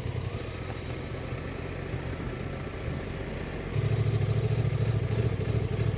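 Honda Transalp motorcycle engine running at low revs on a dirt trail, then growing louder about four seconds in as it pulls harder.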